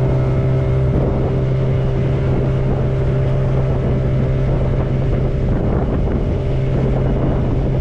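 Motorboat engine running at a steady drone, with wind noise on the microphone.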